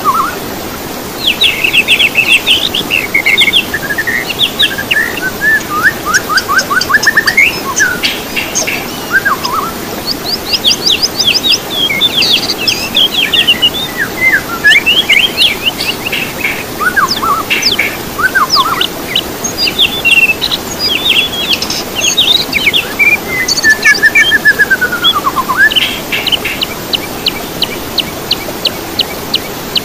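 Songbirds singing continuously: a varied, fast-changing stream of clear whistles, chirps, down-slurred notes and rapid trills, over a steady background hiss.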